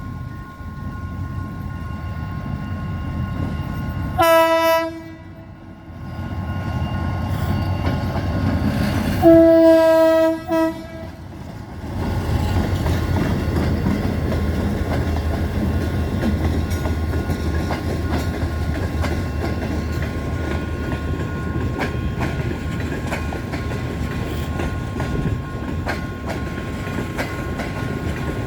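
Diesel locomotive of a passenger train sounding its horn: a short blast, then a longer one about five seconds later, over the engine's rumble. After that the coaches roll past with a steady rolling noise and wheels clicking over the rail joints.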